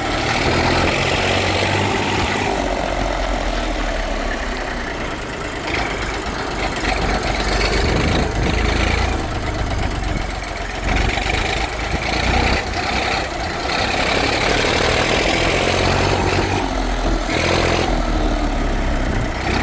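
Massey Ferguson FE 35 tractor's Perkins diesel engine running at around idle, its loudness shifting a few times.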